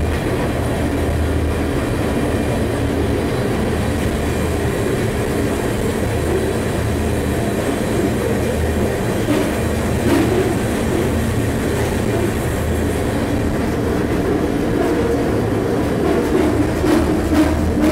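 Freight train rolling, heard from aboard a car near the front: a steady low rumble of wheels on rail and rattling of the car, with a few sharp clanks near the end.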